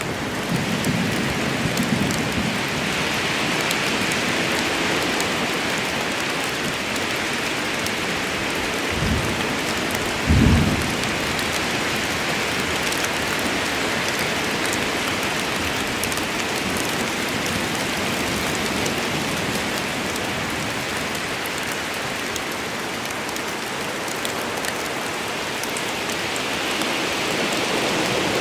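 Steady rain of a forest storm falling on leaves and ground. A low rumble sounds in the first couple of seconds, and two short low thumps come about a second and a half apart near the middle, the second the loudest.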